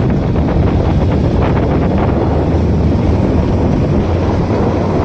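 Riding a Kawasaki Ninja motorcycle: wind buffets the microphone in a loud, steady rush, with the bike's engine running underneath.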